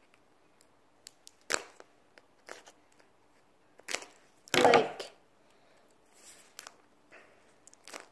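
Scissors working at a hard plastic toy egg that resists opening: scattered clicks and cracks, with the loudest crunch about halfway through.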